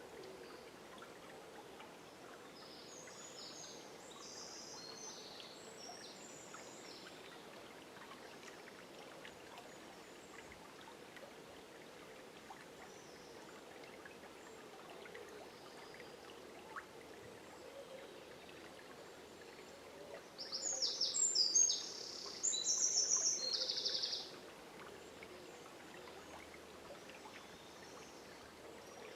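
River water flowing steadily through a forest at dawn, with songbirds singing: faint song a few seconds in, and two loud song phrases about two-thirds of the way through.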